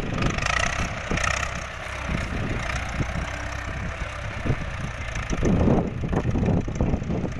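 Ford 6600 tractor's diesel engine running steadily.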